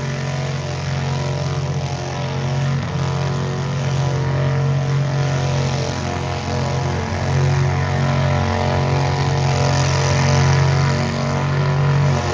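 Tractor engine running steadily at a constant throttle, a low, even hum that holds throughout.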